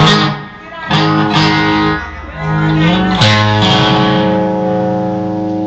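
Guitar-led band music: chords are struck about a second apart at first, then a chord struck a little after three seconds in is held and left ringing.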